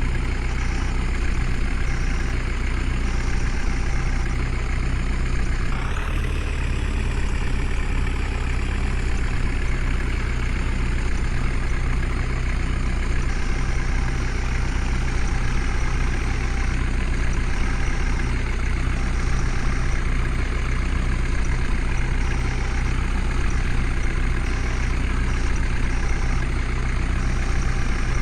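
Heavy diesel engine running steadily with a deep, low note. Its pitch shifts briefly about six seconds in and then slowly settles lower.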